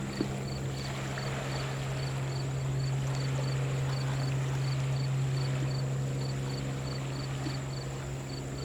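A low steady engine drone, swelling slightly through the middle, with a faint high-pitched chirp repeating about three times a second.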